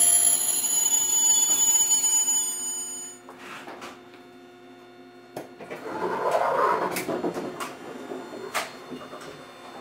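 Eizan Electric Railway Deo 700-series railcar heard from inside, slowing to a stop: a high-pitched whine from the train fades and cuts off about three seconds in. It then stands much quieter, with a click and a short rush of noise around six seconds.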